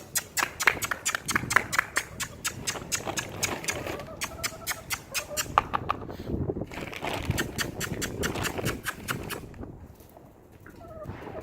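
Chickens being called to feed: a rapid run of sharp clicks, about five a second, with short chicken calls in between. The clicking stops a little before the end.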